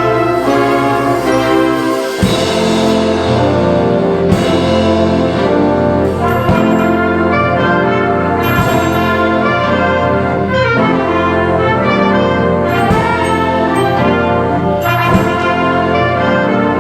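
Concert band playing a loud, brass-led piece, with sustained chords and a percussion strike roughly every two seconds.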